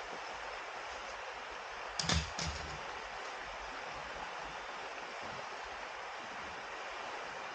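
Steady rush of a flowing river, with two short knocks about two seconds in.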